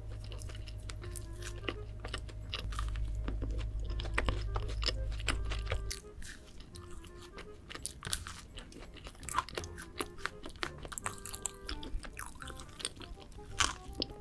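Close-miked crunching and chewing of chocolate treats, many sharp crunches throughout, over background music whose heavy bass drops out about six seconds in.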